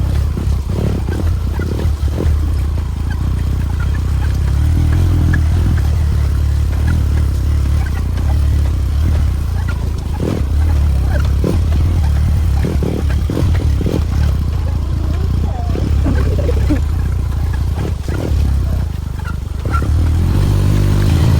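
Motorcycle engine running steadily while under way, with scattered short knocks.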